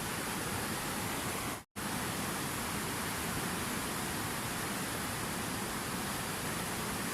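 Steady rushing water, an even unbroken hiss, that cuts out to silence for a split second about one and a half seconds in and then resumes at the same level.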